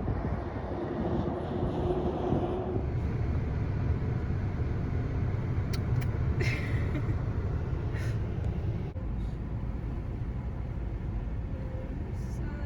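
Steady low rumble of a car running, with a few light clicks about six and eight seconds in.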